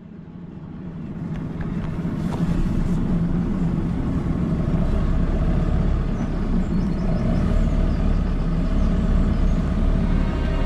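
Boat engine running steadily, swelling up over the first couple of seconds and then holding at a constant drone.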